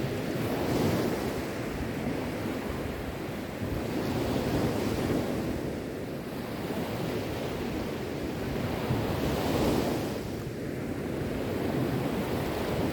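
Sea waves washing onto the shore in a steady wash of surf that swells every four to five seconds.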